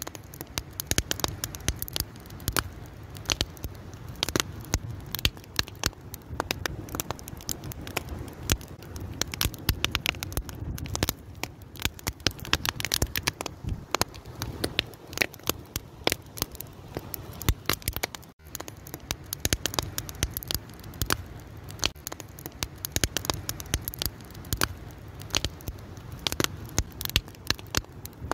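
Wood fire burning, with dense irregular crackling and popping over a low steady rumble of the flames.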